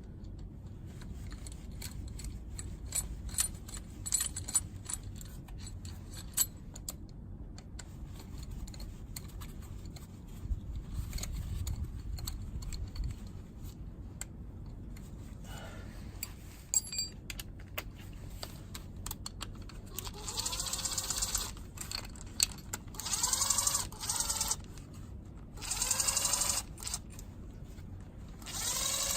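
Scattered metallic clicks and clinks of small bolts and hand tools, then four short runs of a small electric motor, each gliding up and down in pitch, typical of a cordless driver spinning out cover bolts.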